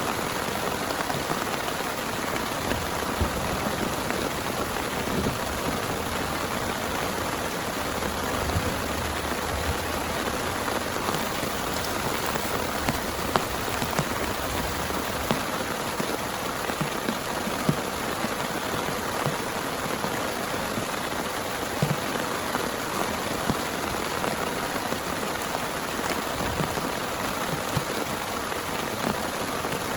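Heavy rain falling steadily, with individual drops ticking sharply on a surface.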